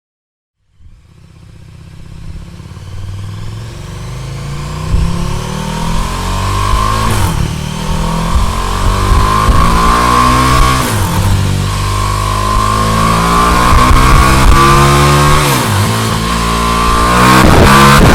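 KTM 1290 Super Duke R's V-twin engine with an aftermarket exhaust, starting about a second in and accelerating hard through the gears. The pitch climbs and drops back at each of about four upshifts, and the sound grows steadily louder.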